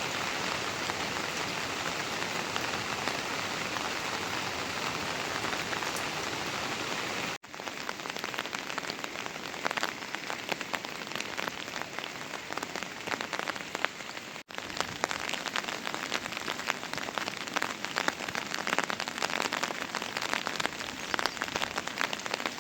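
Steady rain, a dense even hiss of falling water. It cuts out briefly twice, and after the first break separate drops can be heard pattering among the hiss.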